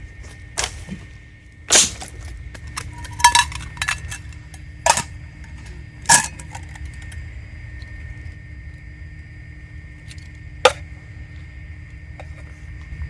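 Camp gear being handled while a campfire is set up: a handful of sharp metallic clinks and knocks, each ringing briefly, at irregular intervals over a steady low background hum.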